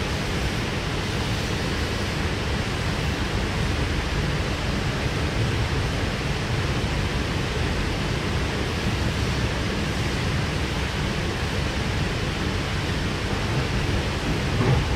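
Steady running noise of a Sydney Trains K-set double-deck electric train heard from inside the carriage: a low rumble and rush of the wheels on the rails while under way. A brief, slightly louder knock comes near the end.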